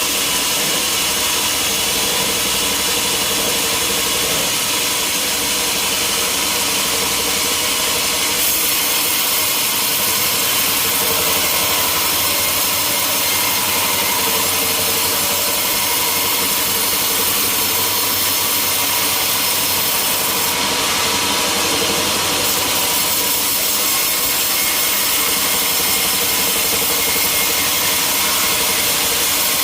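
Sawmill machinery running steadily while a saw cuts through timber.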